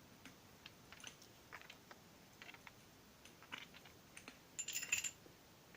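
Wood fire in a fireplace crackling faintly: scattered sharp clicks at irregular intervals, with a quick cluster of louder crackles about four and a half seconds in.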